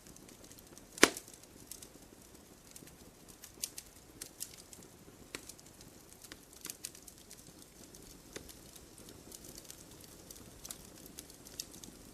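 Wood fire crackling in a fireplace: a soft steady hiss with irregular snaps and pops, one loud pop about a second in.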